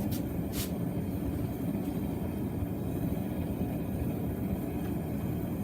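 Blacksmith's forge running with a steady low roar. Two faint light clinks come near the start.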